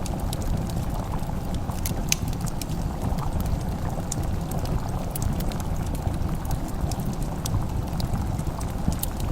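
Crackling fire with scattered sharp pops and snaps over a steady low rumble.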